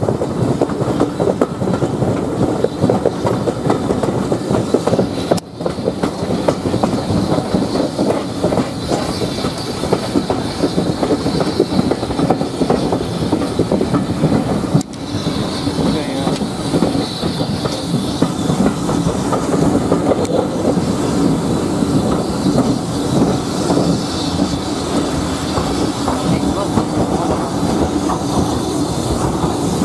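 A steam-hauled train running at speed, heard from an open carriage window: wheels clattering over the rail joints with rushing air. The sound breaks off briefly twice.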